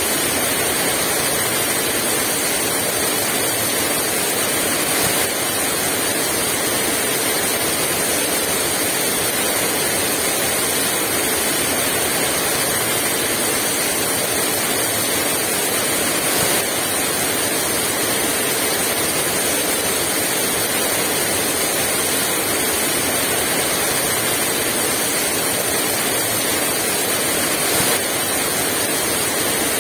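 Heavy rain falling steadily in a dense, even hiss, with no gusts of wind.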